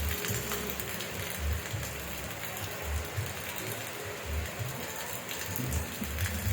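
Steady rain, a dense hiss of many separate drop ticks with irregular soft low thuds mixed in.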